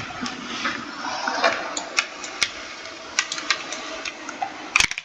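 Computer keyboard being typed on: irregular sharp key clicks, a few a second, with a quick burst of louder clicks near the end.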